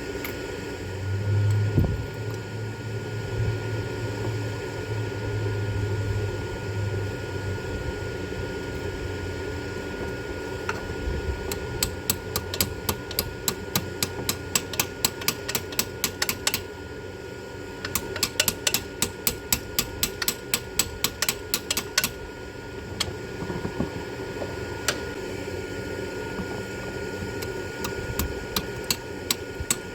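Ratchet wrench clicking in quick runs of about four to five clicks a second while a Heli-Coil insert is driven on a tap into a stripped spark-plug hole. A shop fan drones steadily underneath.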